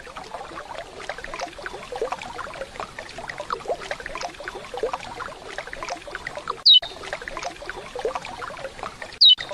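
Steady rushing and splashing of a waterfall, with two short, sharp downslurred whistled calls from a chestnut-bellied seed finch (curió) standing out over it, one about two-thirds of the way in and one near the end.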